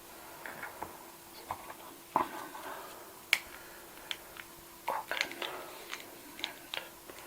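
Irregular small clicks, taps and knocks of objects handled close to the microphone, with a sharper knock about two seconds in, another about three seconds in and a quick cluster of clicks around five seconds in, over a faint steady hum.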